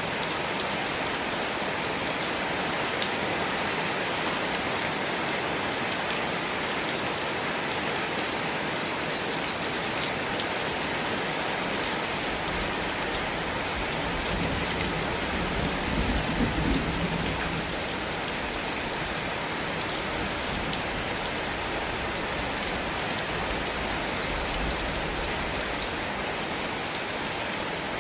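Steady rain falling. About halfway through, a low rumble of distant thunder swells and fades, with a fainter one later.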